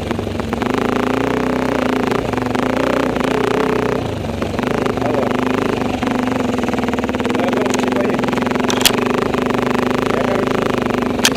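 Enduro motorcycle engine running at a fairly steady pitch, with a few sharp clicks near the end.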